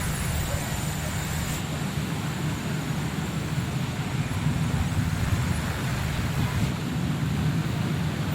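Steady noise of heavy rain with traffic: a low rumble under an even hiss, unbroken throughout.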